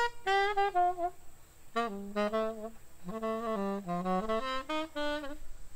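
A saxophone playing a jazz melody in quick runs of short notes, with a brief break about a second in.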